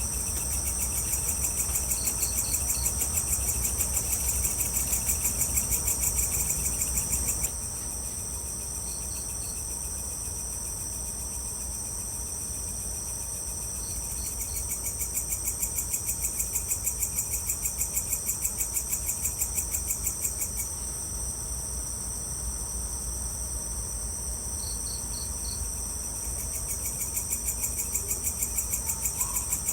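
A chorus of night insects. A high, rapidly pulsing trill runs steadily. A lower pulsing trill stops about a quarter of the way in and returns twice. Short three-note cricket chirps repeat every few seconds. Underneath is a low, steady rumble.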